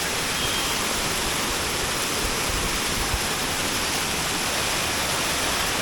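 Steady rush of a waterfall and fast-flowing stream water.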